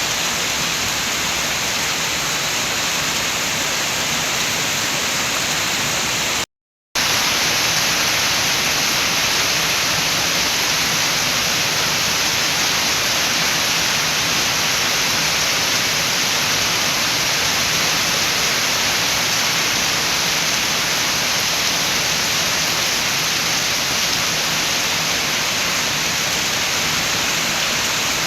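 Steady heavy rain with wind, an even rushing hiss. It cuts out completely for about half a second some six and a half seconds in, then carries on slightly brighter.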